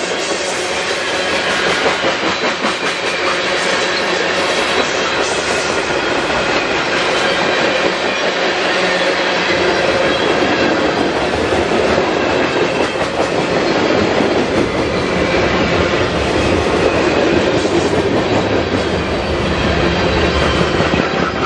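CSX freight train rolling past close by: a steady clatter and rumble of freight-car wheels over the rails as lumber-loaded centerbeam flatcars go by. A deeper diesel engine sound builds in the second half as the mid-train locomotive comes past.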